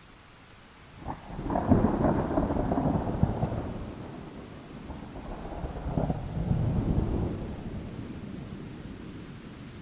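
A thunderclap over steady rain: a sharp crack about a second in opens into a loud, low rumble that swells again about six seconds in, then slowly dies away beneath the rain.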